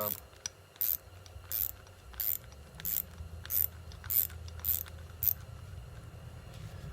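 Ratchet clicking in short back-and-forth strokes, eight clicks about two-thirds of a second apart, stopping about five seconds in, as a 17 mm lock nut is worked off a Showa piggyback shock's shaft; the nut drags on peened threads that were not filed down well enough.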